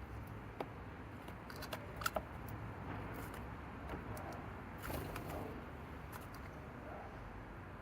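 Steady outdoor background with a few sharp ticks, the loudest pair about two seconds in, and faint bird calls later on.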